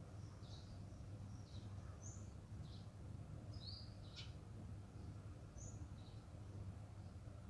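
Faint, short, high chirps of a small bird repeating every second or so, the sharpest about four seconds in, over a low steady hum.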